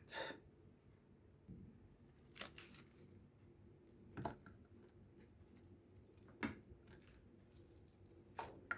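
Knife cutting through an onion on a cutting board: about five quiet, separate cuts, roughly two seconds apart.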